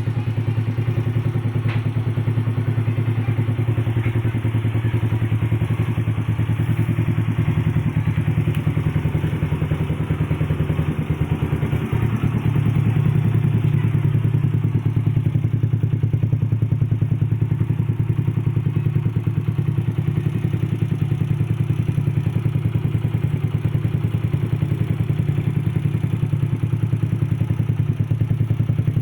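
Custom 200cc Yamaha Nouvo scooter's single-cylinder engine idling through an aftermarket PDK exhaust, a steady low pulsing note. About twelve seconds in, the idle rises slightly and gets a little louder.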